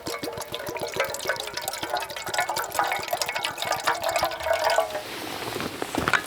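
Liquid pouring and trickling into a container for camp coffee, with many small rapid clicks through it. The pouring stops about five seconds in, and a single sharper knock follows near the end.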